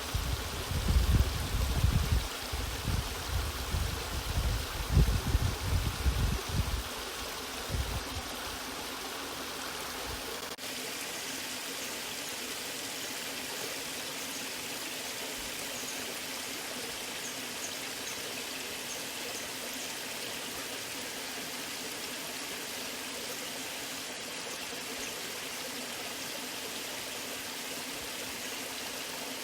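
Waterfall water rushing steadily. Heavy, uneven low rumbling surges come in for the first seven seconds or so. From about ten seconds in the rush turns smooth and even.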